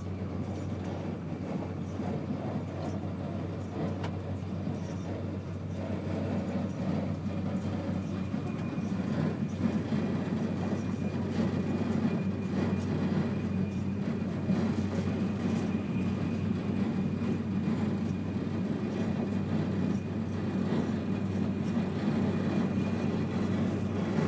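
Interior cabin noise of a Eurostar high-speed train running at speed: a steady low rumble, growing a little louder after about six seconds.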